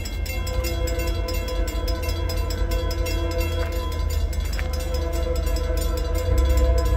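Norfolk Southern diesel-hauled freight train rolling past: a steady heavy low rumble with steady pitched tones over it.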